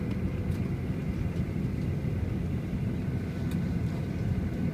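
Steady low engine rumble with a faint high whine over it.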